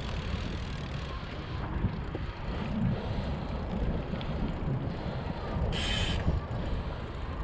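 Wind buffeting the microphone of a camera carried on a moving bicycle: a steady, fluttering low rumble, with a short hiss about six seconds in.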